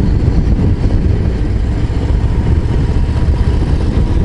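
Harley-Davidson Low Rider ST's Milwaukee-Eight 117 V-twin running steadily on the move, engine braking in fourth gear on a downhill.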